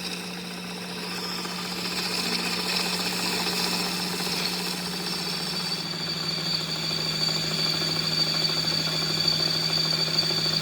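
A machine running steadily, with a low hum and a high whine above it; the whine grows clearer about halfway through.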